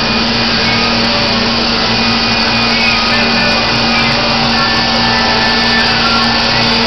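Baker Products Super Streak band sawmill running loud and steady, its blade sawing through a white oak log, with a constant low hum under the noise.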